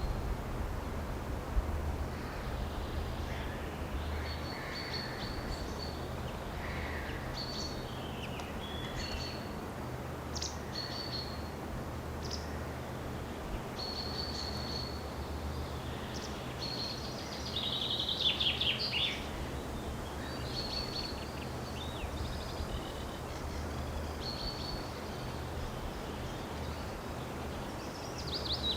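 Wild birds calling with short, high notes and brief trills, including a louder rapid run of falling notes about two-thirds of the way through, over a steady low hum.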